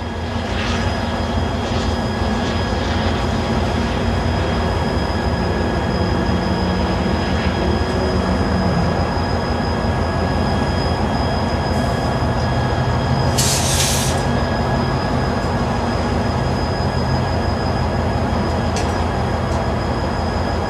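A train rolling by: a steady rumble of wheels on rail with thin, steady high ringing tones, and a brief hiss about thirteen seconds in.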